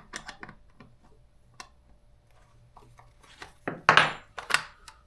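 Small clicks and knocks of the plastic air filter cover and filter being handled and pulled off a Stihl MS200T chainsaw, with a louder burst of scraping and rubbing about four seconds in.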